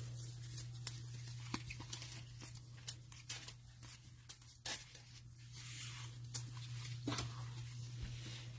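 Trading cards and their cello-pack wrapping being handled: soft, scattered clicks and rustles over a steady low electrical hum.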